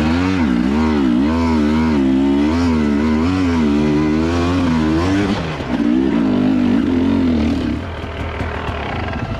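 Dirt bike engine revving up and down in quick repeated swings as the throttle is worked, with a short break about five seconds in, then easing off to a lower, quieter note near the end.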